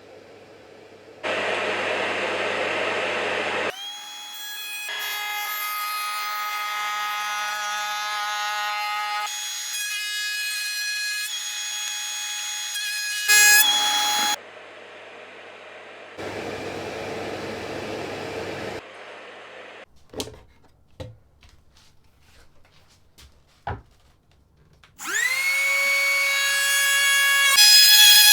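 A compact trim router's motor is switched on several times, each time whining up to a steady high pitch and running. Between the runs come bursts of rushing noise and a few sharp knocks.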